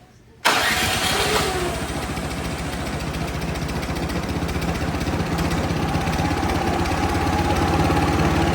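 Gasoline snowblower engine, unused for six or seven years, catching suddenly about half a second in and then running steadily with an even, rapid pulse.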